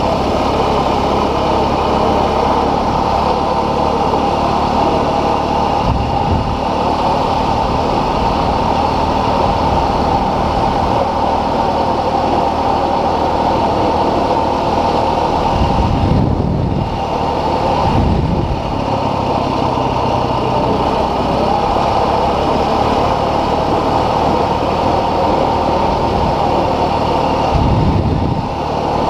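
Dual-sport motorcycle engine running steadily while riding. A few brief low rumbles come through about halfway in and again near the end.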